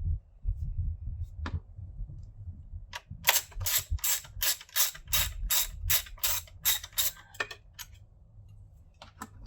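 Socket ratchet clicking as the bolts holding down a top-mount intercooler are backed out. A few single clicks come first, then from about three seconds in a steady run of about three clicks a second for some four seconds, over low knocking and rumbling from handling.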